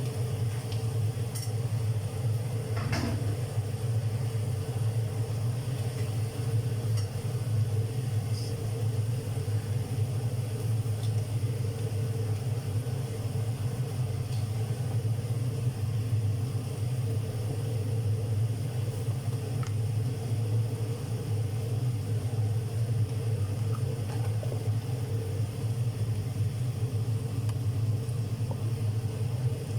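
Steady low rumbling hum, with a single click about three seconds in.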